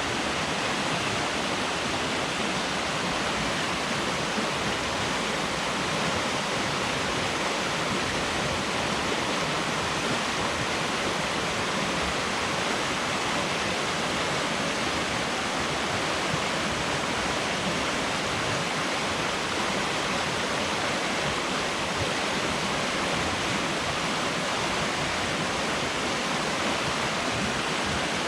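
Flooded stream running high and fast, its water rushing with a steady, unbroken noise.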